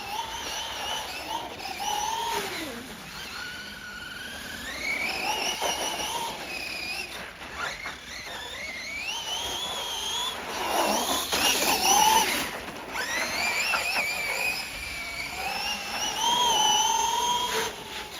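Losi Grave Digger RC monster truck's electric motor whining on a 3S battery, its pitch rising and falling again and again as the throttle is worked, loudest and roughest a little past the middle.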